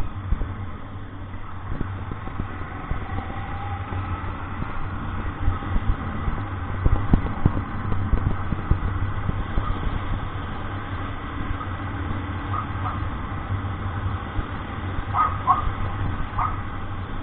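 Vehicle engine and road noise: a steady low drone with irregular low knocks, and a few short high squeaks near the end.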